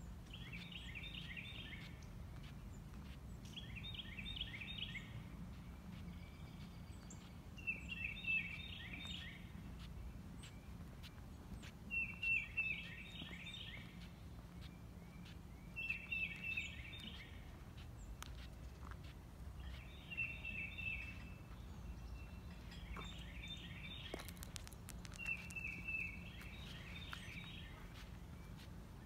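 A songbird singing the same short phrase of quick notes over and over, about every four seconds, over a steady low hum.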